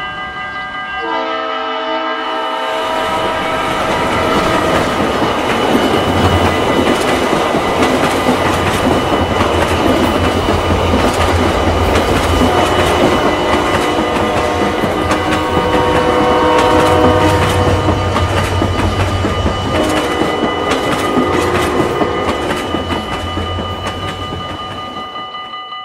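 Railroad crossing warning signal ringing steadily as a freight train passes. The locomotive horn sounds several times, and the wheels clatter over the rails, loudest mid-way and fading as the train leaves.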